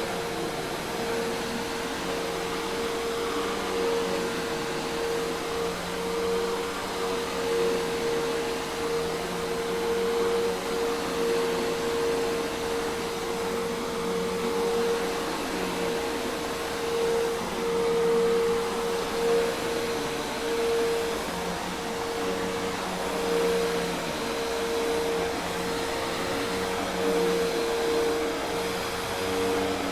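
Hoover Task Vac commercial vacuum cleaner running steadily: a constant whine over a rush of air.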